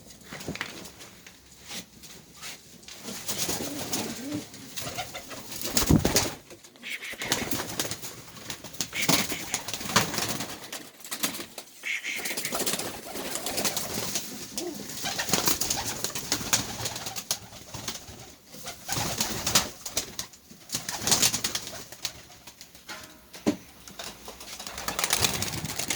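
Double-crested domestic pigeons cooing, with many short sharp claps and scuffs mixed in.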